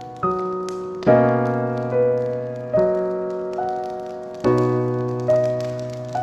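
Slow, gentle solo piano music: a new note or chord is struck a little more often than once a second, each ringing out and fading.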